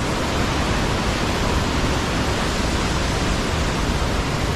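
Steady rush of fast water from a mountain creek cascading through a canyon, an even roar with no breaks.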